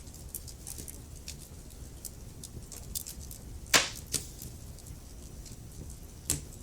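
Wood fire crackling, with a steady scatter of small snaps over a low rumble. A loud pop comes nearly four seconds in, a smaller one just after it, and another sharp pop near the end.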